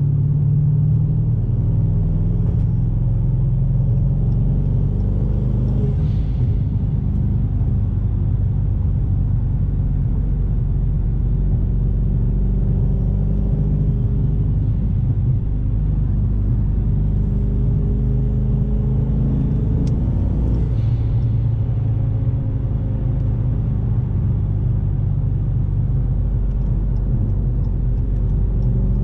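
Twin-turbo Dodge Challenger Hellcat's supercharger-swapped 6.2-litre Hemi V8 cruising at highway speed, heard from inside the cabin: a steady low engine drone with road noise, its pitch drifting up and down slightly with the throttle. Twice there is a faint short hiss.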